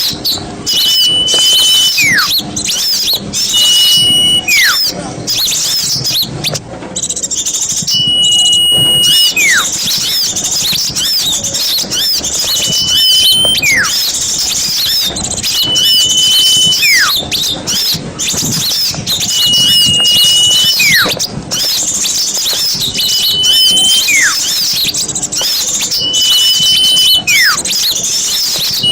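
Bird-lure recording of many small songbirds calling at once in a dense, loud, high chatter. A clear whistle held on one note then sliding steeply down repeats about every two seconds, as in a looped lure track.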